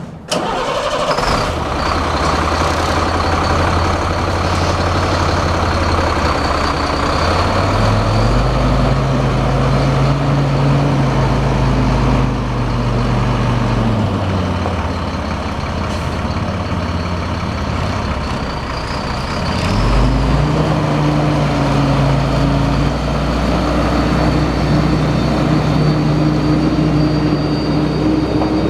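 A 2005 Freightliner M2 grain truck's diesel engine catches right at the start and idles. It is brought up to a higher steady speed about 8 seconds in, drops back to idle near 14 seconds, and rises again about 20 seconds in, holding there.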